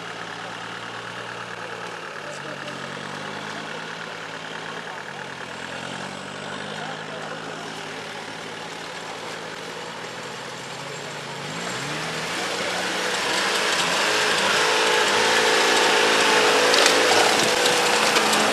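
Off-road 4x4's engine running and revving up and down as it crawls through deep mud, growing louder and harsher in the last third as it is worked hard under load.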